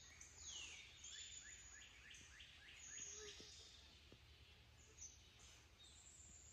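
Faint woodland birdsong: a couple of falling whistles near the start, then a quick run of about five short falling notes a little after two seconds in, over a thin, high, steady hiss.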